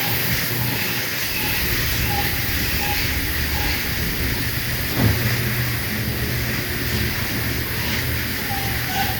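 Automatic car wash running: a steady hiss of water spray over a low motor hum, with a single knock about five seconds in.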